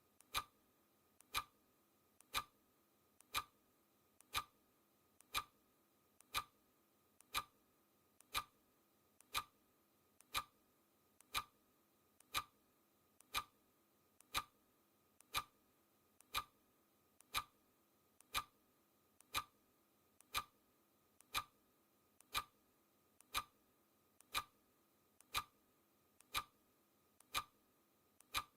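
Clock ticking steadily once a second, each tick a sharp click with a faint lighter click just before it.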